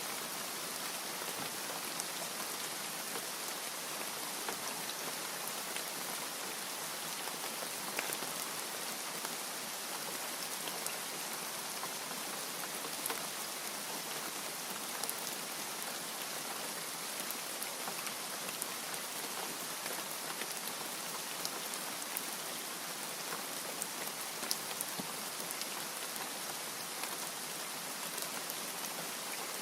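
Steady rain falling on a surface, an even hiss with many small scattered drop ticks throughout.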